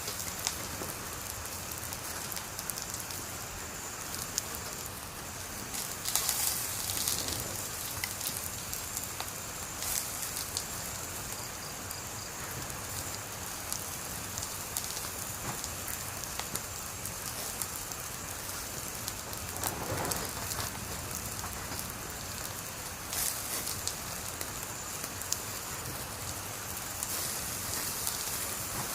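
Wood fire burning: a steady hiss with constant small crackles and a few louder pops scattered through.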